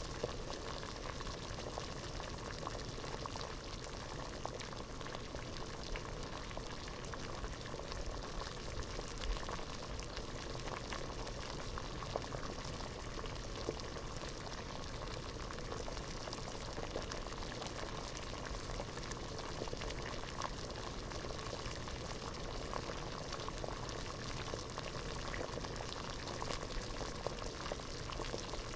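Water boiling in a pot: a steady bubbling with many small pops and crackles throughout.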